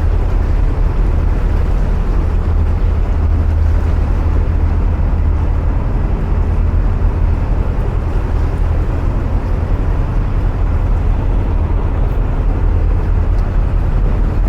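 Narrowboat engines running steadily inside a canal tunnel: a loud, even low rumble, much of it from an old boat following close behind.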